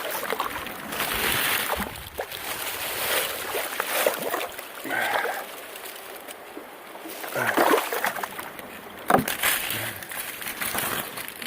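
Creek water splashing and sloshing in uneven swells, with a sharp knock about nine seconds in.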